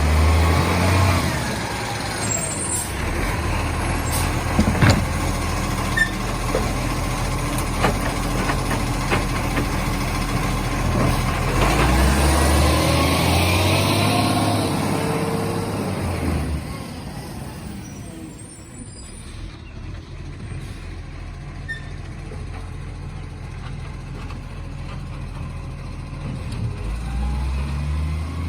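Garbage truck's diesel engine running and revving up several times, with a hiss of air and a few sharp knocks; the sound drops away after the middle.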